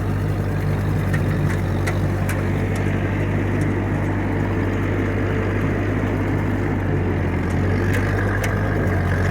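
1956 Massey Ferguson F40 tractor engine running steadily under load while pulling a bush hog rotary cutter through a field, with a few faint ticks.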